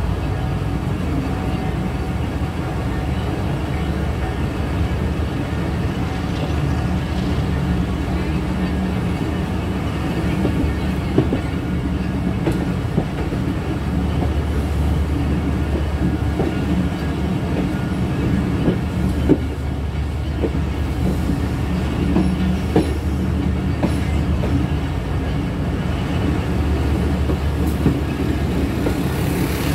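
Train running on the rails: a steady low rumble with scattered sharp clacks.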